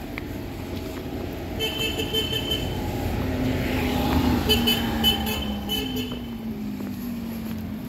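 Road traffic: a vehicle horn sounds in short toots about two seconds in and again several times around five seconds, while a passing engine's pitch slowly falls.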